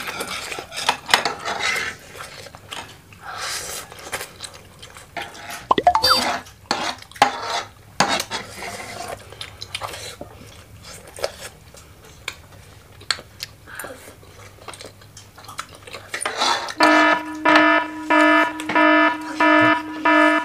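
Eating at the table: a fork and chopsticks clicking against a wooden tray and plate, with the mouth sounds of eating instant noodles. About three and a half seconds before the end, an alarm starts beeping steadily, about two low beeps a second.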